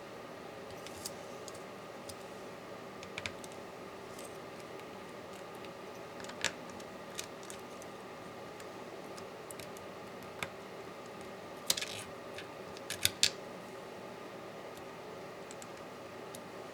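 Scattered small clicks and taps of hand tools and small laptop parts being handled, irregular, with a few louder clicks in the second half, over a steady low hum.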